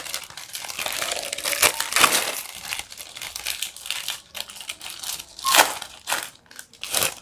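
Plastic ice-cream and kulfi wrappers being torn open and crinkled, an irregular crackling with a few sharper tears.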